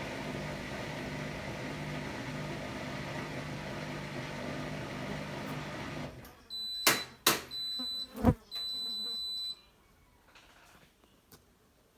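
Hotpoint-Ariston Aqualtis washer-dryer running with a steady hum that cuts off about halfway through, followed by three electronic end-of-cycle beeps from the machine, with two sharp clicks and a thump among them.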